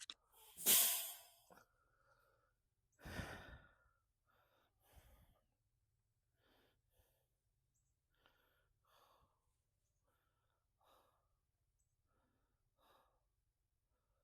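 A man breathing hard: two loud, sighing exhales in the first few seconds, then softer breaths about every two seconds.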